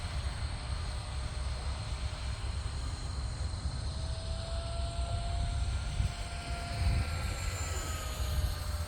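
FMS F-16 electric ducted-fan RC jet in flight, its fan whine faint and rising then falling gently in pitch as it passes, over a steady rumble of wind on the microphone.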